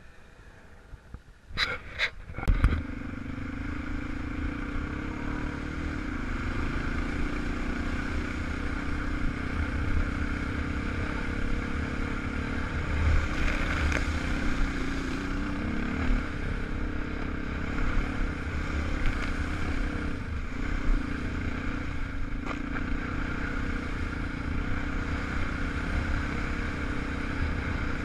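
A few sharp clicks and knocks, then a 250 cc enduro motorcycle engine running steadily from about two and a half seconds in.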